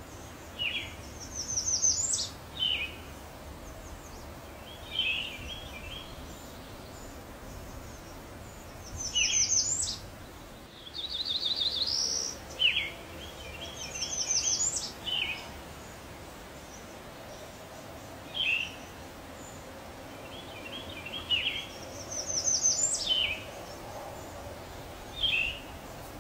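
Songbirds calling every few seconds: quick runs of high falling notes, short down-slurred chirps and little clusters of notes, over a steady faint hiss.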